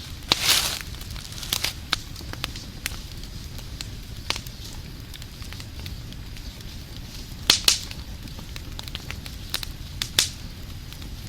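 Wood fire crackling over a steady low rumble, with irregular sharp pops; the loudest come about half a second in, twice around two-thirds of the way through, and once more near the end.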